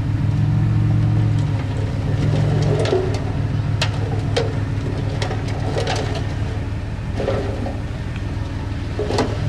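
A heavy-equipment diesel engine running steadily at a low, even pitch, with scattered sharp clicks and knocks over it.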